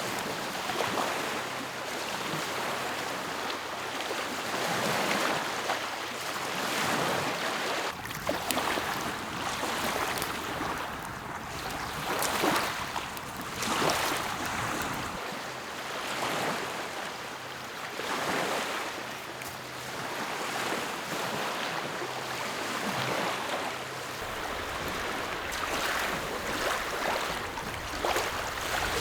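Small lake waves washing onto the shore, swelling and falling every couple of seconds, with an occasional sharper splash.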